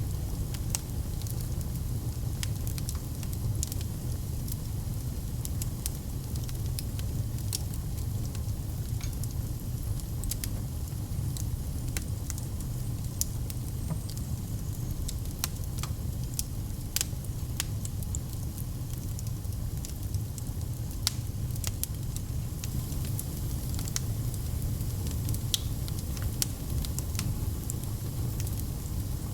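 Wood fire burning in a fireplace, with frequent sharp crackles and pops scattered irregularly over a steady low rumble of the flames.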